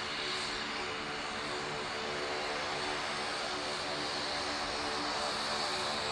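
Jet airliner engines running steadily: an even drone with several constant humming tones, neither rising nor falling.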